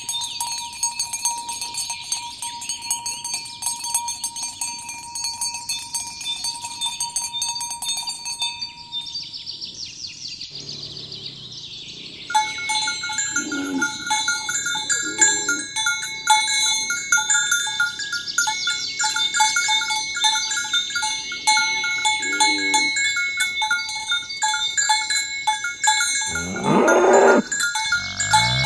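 Cowbells jangling on a herd of cattle being driven along, with the ringing thickening about halfway through. A cow moos once near the end.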